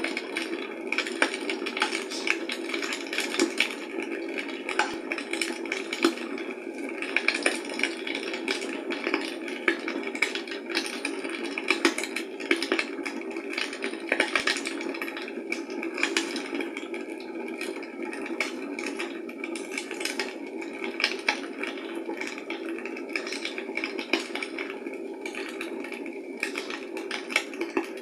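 Fire in a fireplace crackling, with frequent irregular pops and snaps over a steady rushing noise.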